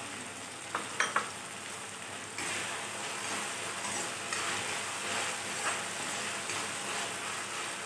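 Tomato, onion and green chilli masala sizzling in hot oil in a kadhai while it is stirred with a metal spoon. There are a few light clinks of the spoon on the pan about a second in, and the frying gets a little louder from about two and a half seconds as the stirring gets going.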